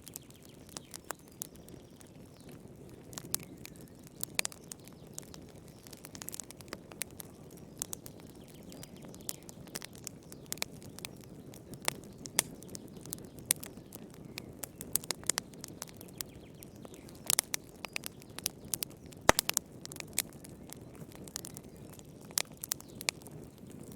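Wood fire crackling in a fireplace: frequent irregular sharp pops and snaps over a low, steady rush of the flames.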